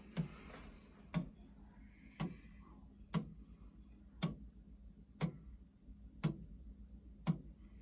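A 3D-printed plastic pendulum clock's escapement ticking steadily, about one sharp click a second.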